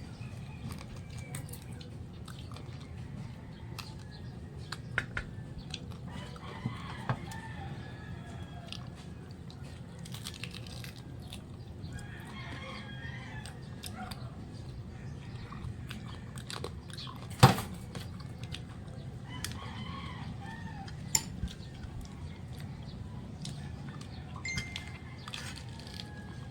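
Chickens calling in the background, with a rooster crowing several times, over clicks and crunching from eating. A single sharp knock, the loudest sound, comes about two-thirds of the way through. A steady low hum runs underneath.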